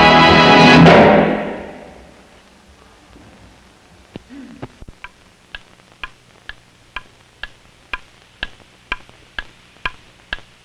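Studio orchestra holding the last chord of a song, fading away within the first two seconds. After a short lull, a steady, even ticking starts, about two sharp ticks a second, like a clock.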